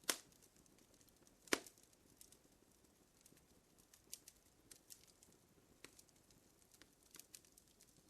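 Wood fire crackling, with scattered small pops and two louder snaps near the start and about a second and a half in.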